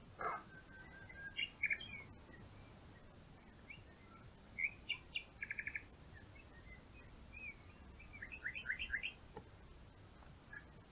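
Songbirds chirping and calling, with short trills: a quick run of about five repeated notes some five and a half seconds in, and a falling series of notes near nine seconds. A few faint clicks sit among the calls.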